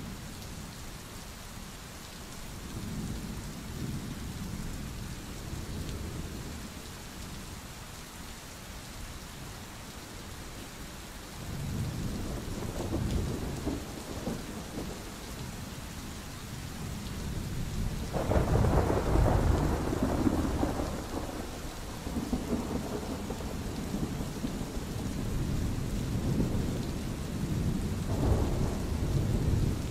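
Steady rain with rolling thunder. Low rumbles swell a few seconds in and again about twelve seconds in. A louder thunderclap breaks about eighteen seconds in and rumbles on for several seconds, and another rumble comes near the end.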